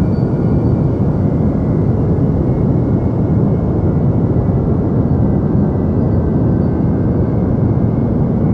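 Steady deep noise of a sleep-noise track: an even low rumble with little hiss above it, unchanging in level.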